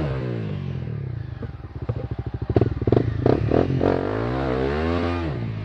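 Trail motorcycle engine revving up and down, falling to a low, uneven chugging with clattery knocks in the middle, then revving again near the end.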